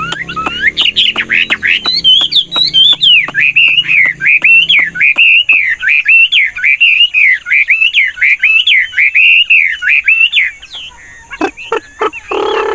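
Chinese hwamei (melodious laughingthrush) singing a fast, continuous warbling song of varied, rapidly changing phrases, stopping about ten seconds in.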